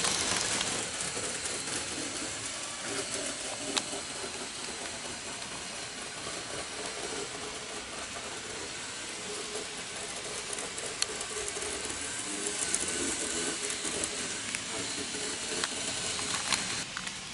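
N-gauge model train running on the layout track: a steady rushing hiss of wheels and a small motor with a hum that comes and goes, broken by a few sharp clicks.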